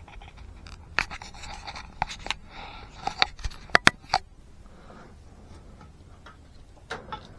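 Scattered light knocks and clicks of objects being handled, with a sharp pair of knocks about four seconds in, over a low steady room hum; quieter in the second half.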